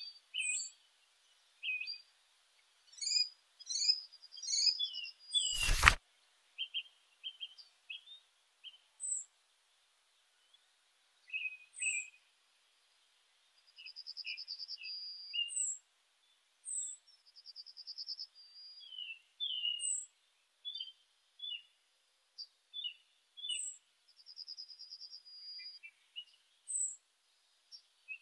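Songbirds chirping and singing, with short high chirps, quick up-and-down notes and a few fast trills scattered throughout. A single sharp click about six seconds in is the loudest sound.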